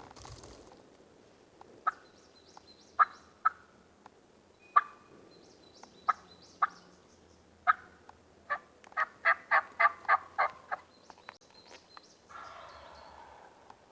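Turkey calling: a few sharp single clucks, then a quick run of about ten yelps. Small birds chirp faintly and high in the background.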